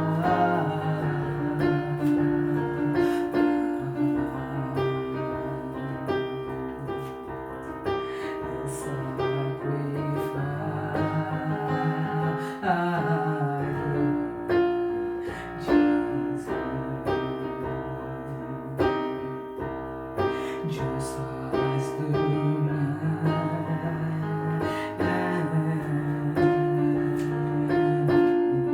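Instrumental worship music on a keyboard, slow held chords that change every few seconds.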